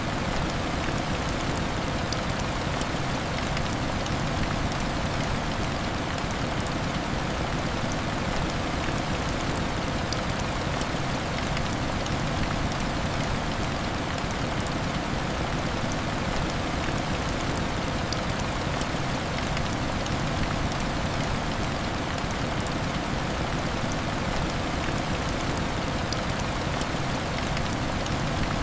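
Heavy rain falling steadily and hitting window glass, an even, unbroken wash of noise with no thunder.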